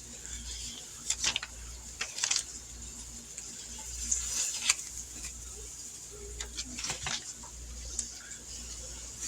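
Kitchen handling sounds: scattered light clicks and taps of utensils and dishes over a faint, steady hiss, with one louder tap a little past four and a half seconds in.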